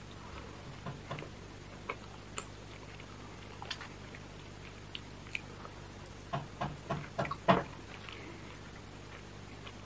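Close-miked eating of oven-roasted chicken: chewing with scattered wet mouth clicks, and fingers pulling meat from the chicken. A quick run of louder clicks and crackles comes about six to seven and a half seconds in.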